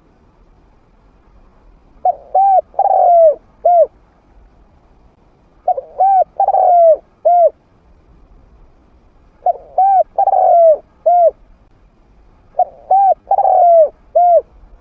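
Trained spotted dove (a decoy bird with a mid-pitched voice) cooing. There are four phrases, about one every three and a half seconds, each of two short coos, a long falling coo and a short closing coo.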